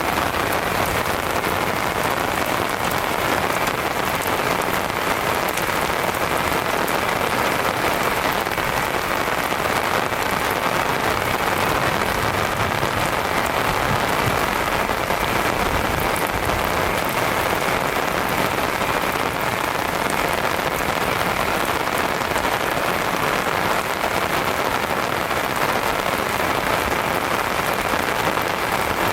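Heavy rain falling steadily on a surface, a dense even patter. A brief low rumble about halfway through.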